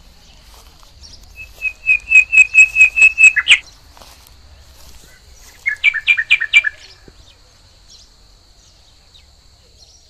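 A bird giving two bursts of rapid, loud, high chirps, about five notes a second: the first about ten notes long and ending in a lower note, the second, about two seconds later, a shorter run of about six notes. A faint steady high whine runs behind.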